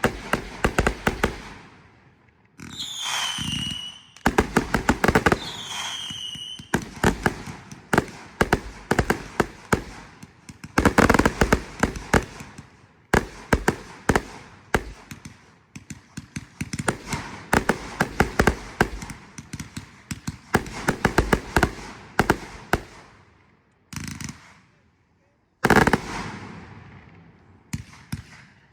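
Consumer fireworks going off in rapid succession: dense clusters of crackling pops and bangs, with two falling whistles a few seconds in. The noise stops for a moment about 24 seconds in.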